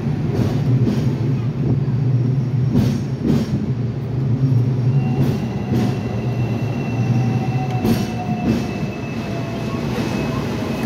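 Hong Kong double-decker tram running along street track: a steady low rumble with a few knocks as the wheels cross rail joints, and a thin wheel squeal from about halfway through.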